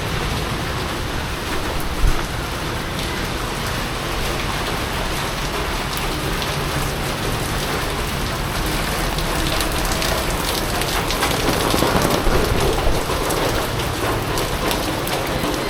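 Heavy typhoon rain falling steadily, with many close, sharp drop hits. A single sharp knock about two seconds in, and the rain swells louder for a couple of seconds later on.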